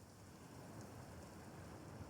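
Faint, steady hiss of thunderstorm rain, heard from inside a house.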